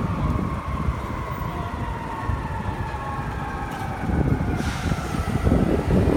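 A train running past, its high whining tones slowly falling in pitch over a steady low rumble.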